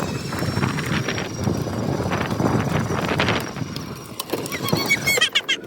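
A duck calling with a run of raspy quacks, then a few short, higher calls near the end.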